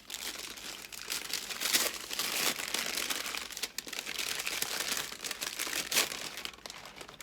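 Packaging crinkling and rustling as it is pulled open by hand, with a few sharper crackles along the way.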